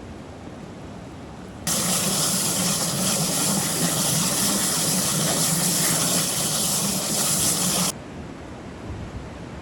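Rushing floodwater, a loud steady gush that starts suddenly about two seconds in and cuts off abruptly about six seconds later, with a quieter steady rush before and after.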